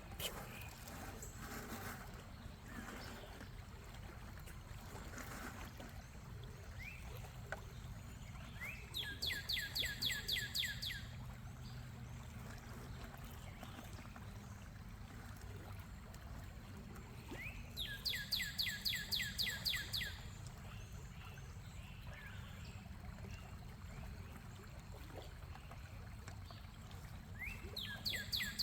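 A songbird sings three times, about nine seconds apart. Each song is a two-second run of quick downward-slurred notes, over a steady low background noise.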